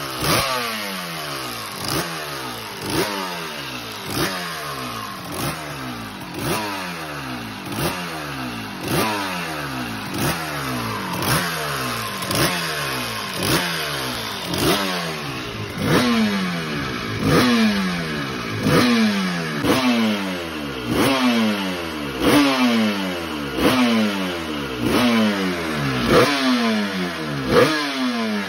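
Yamaha TZ250 5KE two-stroke racing engine running with the throttle blipped about once a second, each rev spike falling straight back down. The blips grow stronger about halfway through.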